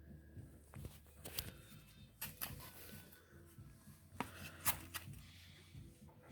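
Baby double-maned lionhead rabbit eating carrot tops and watercress: irregular crisp crunches and tearing of leaves as she chews, the sharpest a little before five seconds in.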